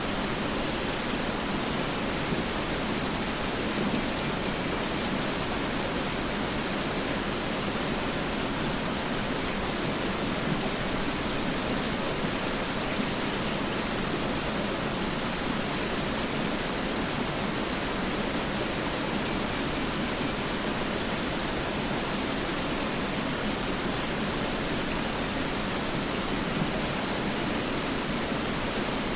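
Mountain river flowing: a steady, unbroken rush of water with no distinct splashes.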